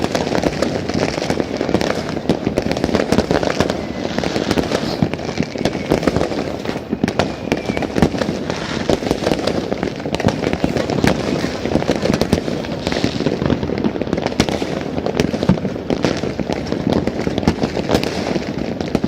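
New Year's fireworks going off in a dense, unbroken barrage: many overlapping bangs and crackles, with no pause between them.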